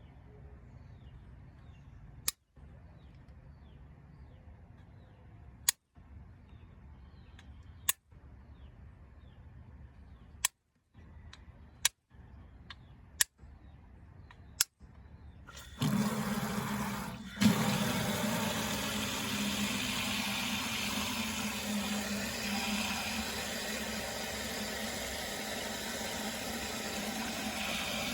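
Faint background with small high chirps and a few sharp clicks, then about halfway through a loud, steady rush of running water with a low hum under it.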